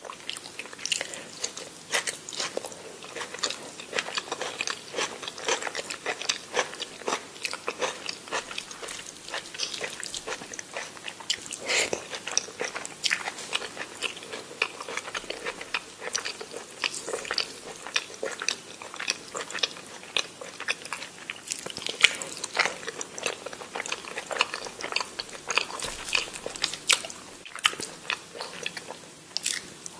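Close-miked chewing and biting of food, a steady stream of wet smacks and small crunchy clicks several times a second.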